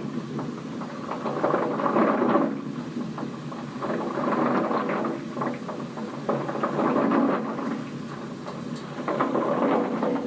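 Tank water heater rumbling and crackling like a rock tumbler, the churning swelling and easing every couple of seconds. This is typical of sediment built up in the bottom of the tank.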